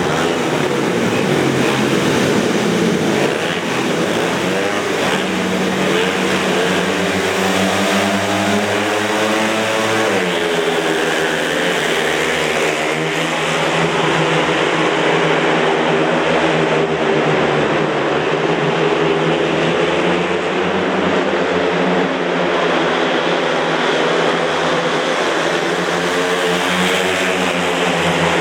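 Speedway motorcycles racing: several 500 cc single-cylinder methanol-fuelled engines running at high revs, their pitch rising and falling as they accelerate out of the bends and pass.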